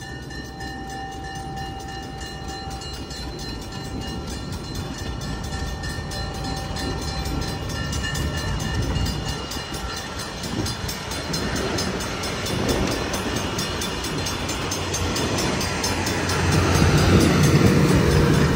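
Passenger train passing over a road grade crossing: the ALCO RS-11 diesel locomotive's engine running as it goes by, then the cars' wheels rolling and clacking over the rails, growing louder toward the end. A crossing bell rings steadily throughout.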